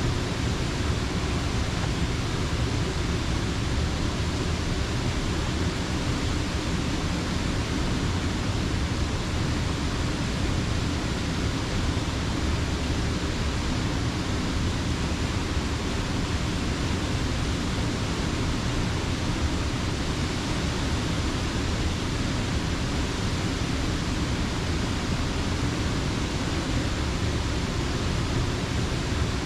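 Steady rush of water pouring over a mill dam, an even, unbroken noise with no separate events.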